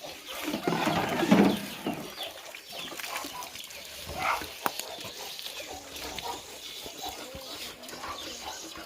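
Chickens clucking and calling in a coop, in short scattered calls, with a louder call about a second in and a sharp click a little before the middle.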